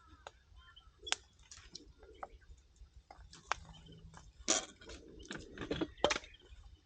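Firewood crackling and popping in a campfire: irregular sharp snaps, a few louder pops about two-thirds of the way in.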